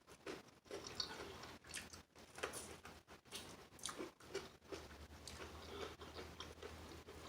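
A person chewing crispy fried chicken wings close to the microphone: faint, irregular crunches and mouth clicks.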